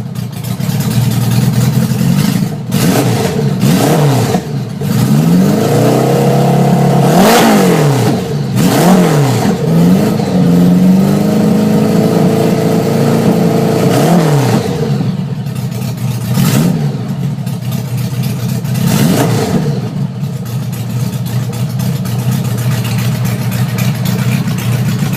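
1976 Honda Gold Wing's flat-four engine, run cold on open headers with no mufflers. It is revved repeatedly, with several quick throttle blips and one longer held rise in the middle, then settles back to a steady idle.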